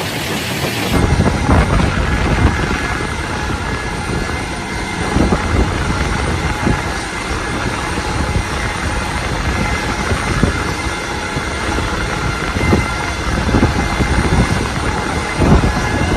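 Loud, steady rumble of a large aircraft's engines, with uneven low pulses throughout.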